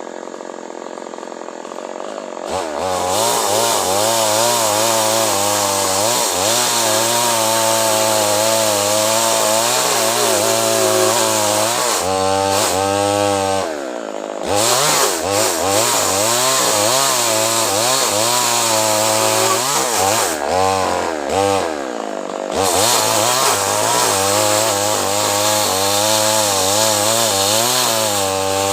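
Two-stroke chainsaw idling at first, then throttled up and cutting acacia wood. Its engine pitch wavers up and down as the chain bites. It eases off and picks up again twice.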